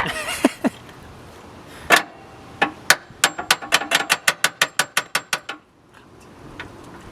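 Hammer striking metal: a few single blows, then a quick run of about a dozen at roughly five a second.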